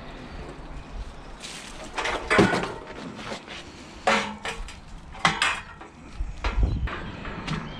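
Scrap metal clanking and clattering as pieces are handled and knocked together, a series of about nine sharp metallic knocks at uneven intervals.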